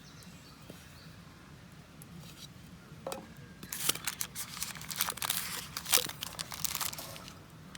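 Plastic cling wrap crinkling and crackling as it is peeled off a wrapped homemade florentine, in a dense run of crackles from about halfway in that stops shortly before the end.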